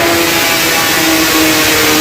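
Kawasaki ZX-6R inline-four engine held at high revs on a dyno, its Austin Racing exhaust giving a loud, steady high-pitched howl that dips slightly in pitch at the start.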